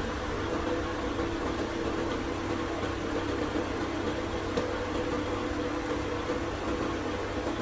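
A machine running steadily, a constant low hum with a steady tone over it.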